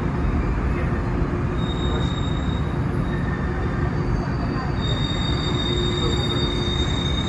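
Cabin of a JNR 113 series electric train rolling slowly into a station: a steady low running rumble with a thin high squeal that comes and goes as the train brakes to a stop.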